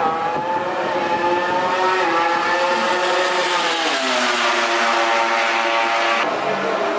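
MotoGP racing motorcycle engine at high revs, its pitch climbing, then dropping away about four seconds in, with an abrupt change in the sound near the end.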